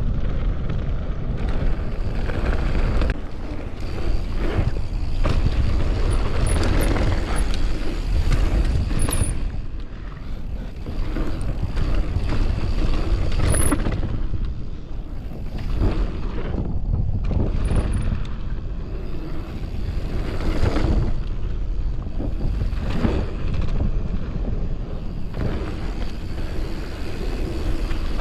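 Mountain bike descending a dirt trail at speed: wind rushing over the camera microphone, with the bike rattling and knocking over bumps.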